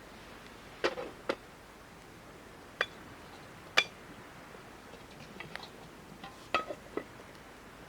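Scattered light clinks and taps of small hard objects being handled, about eight in all, a few with a brief ringing tone, over a faint steady hiss.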